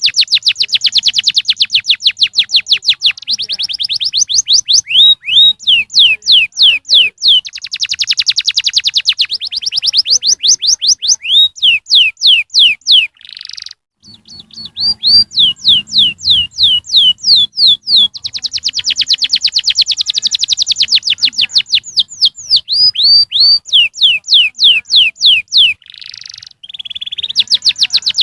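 Domestic canary singing loud, rapid trills: long runs of quickly repeated, sharply falling notes, in phrases that change pace, with a brief break about halfway.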